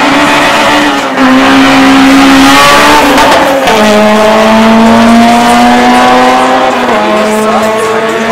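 Honda Civic hatchback's engine accelerating hard down a drag strip, loud and held at high revs. The pitch drops sharply at gear changes about three and a half and seven seconds in.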